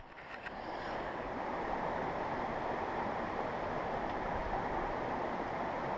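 Mountain creek water rushing steadily, fading in over the first second.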